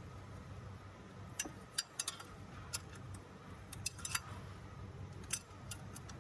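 Hand tools and metal parts clinking and clicking, about a dozen sharp irregular ticks, over a steady low hum.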